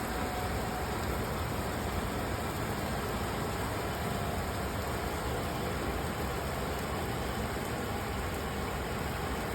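Steady rainfall, an even hiss that holds level without a break.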